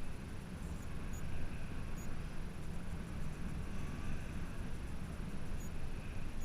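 Wind buffeting the microphone: a steady, uneven low rumble, with a few faint ticks.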